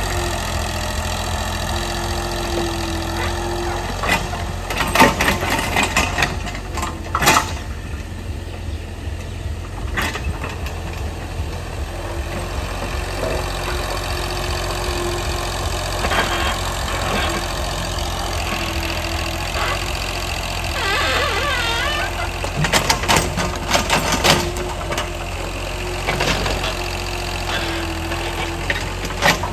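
An engine running steadily at idle, with a few sharp knocks or clatters now and then.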